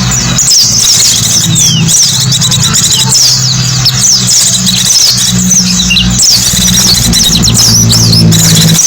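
White-eyes (pleci) twittering: a dense run of quick high chirps and short falling whistles, over a steady low hum.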